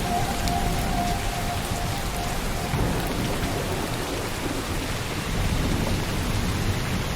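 Steady rainfall pattering on a surface, with a low rumble of thunder underneath.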